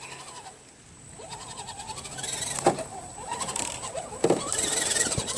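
Redcat Gen7 RC crawler's electric motor and drivetrain whining as it crawls, the pitch wavering up and down with the throttle, with fast ticking from the gears and a couple of sharp knocks as it hits sticks.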